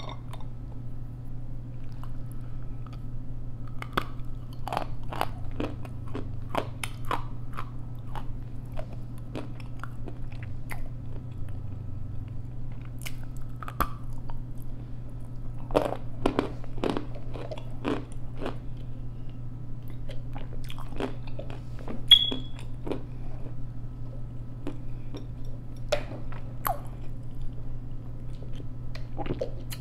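Close-miked biting and crunching of dry, chalky edible clay, with irregular crisp crunches and chewing throughout over a steady low hum. About two-thirds of the way through, one brief sharp click is the loudest sound.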